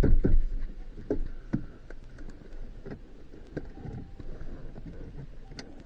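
Plastic dash trim being handled and pressed into place: a loud knock at the start, then scattered light clicks and taps.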